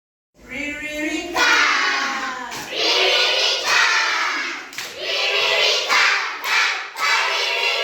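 A group of children chanting or singing letter-sound rhymes together in phrases, with a few claps or knocks between them.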